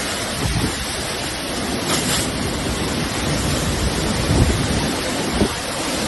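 Steady rush of wind and water in a monsoon storm, with gusts buffeting the microphone as uneven low rumbles.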